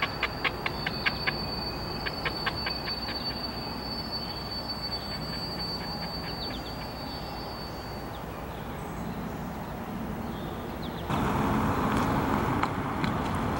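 Diesel switcher locomotive and freight cars rolling slowly over curved track and switches: a thin, steady, high wheel squeal for about the first eight seconds, a quick run of clicks from the wheels over rail joints in the first few seconds, and a low diesel rumble beneath. About eleven seconds in the sound jumps to a louder, steadier train noise.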